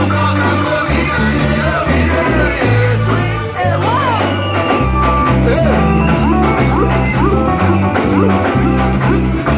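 Live worship band music: electric guitar lines with bends and a bass guitar playing changing notes, with percussion coming in about halfway through.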